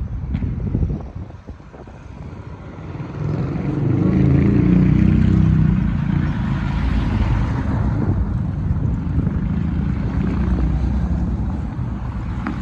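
Motor vehicle engine and road noise, a low rumble that swells about three seconds in, loudest for a few seconds, then runs on steadily.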